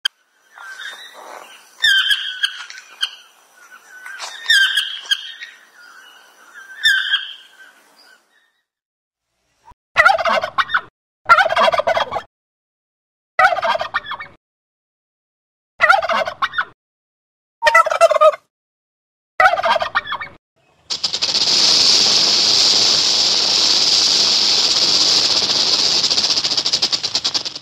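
A toucan calling three times, then a male wild turkey gobbling seven times, each gobble under a second. Then a snake's steady hiss, lasting about six seconds.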